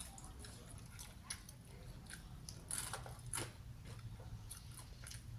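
Close-up eating sounds: scattered crunchy bites and chewing of deep-fried battered food, with small clicks, the loudest about three seconds in, over a low steady hum.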